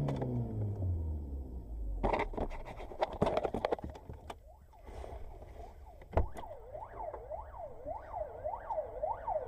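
A vehicle engine note dropping in pitch as it slows, then a cluster of knocks and clatter about two to four seconds in and a single thump a little after six seconds. After that a siren starts a rapid up-and-down wail, about two sweeps a second.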